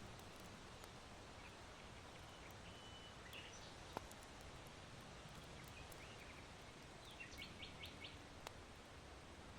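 Faint chirps of small birds over a steady hiss of wind, with a quick run of four chirps late on. A couple of sharp pops from charcoal burning in an irori hearth.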